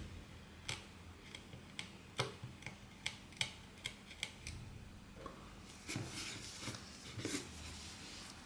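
Small repair tools clicking and tapping on a smartphone during disassembly: about a dozen sharp, separate clicks, then a few brief scraping sounds in the second half.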